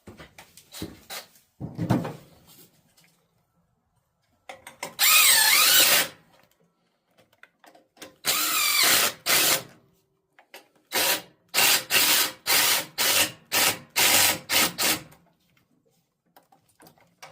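A power drill driving bolts: two long runs with the motor pitch wavering, then a quick series of about eight short trigger pulses as the bolts are snugged down. Light clicks and a thump of parts being handled come first.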